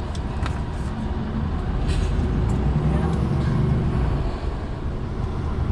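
Lorry's diesel engine running, heard from inside the cab as a steady low rumble with a few light clicks; the engine note grows louder about halfway through.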